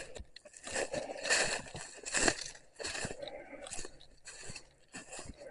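Footsteps crunching through storm debris and fallen branches, a step about once a second.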